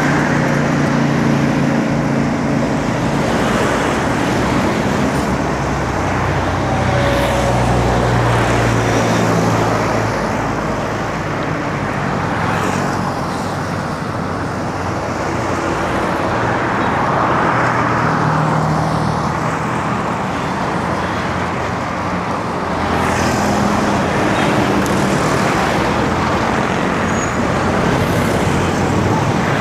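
Road traffic: motor vehicle engines running and passing close by, with continuous road noise. The engine hum swells and fades several times as vehicles go by.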